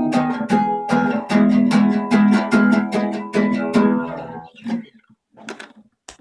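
Guitar strummed in a steady rhythm of chords, the song's final bars, dying away about four and a half seconds in. A few faint noises follow, then a short click near the end.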